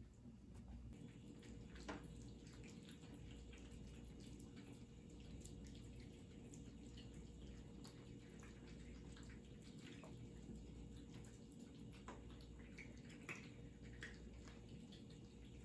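Cats eating: faint, irregular small wet clicks and smacks of mouths at food, over a low steady hum.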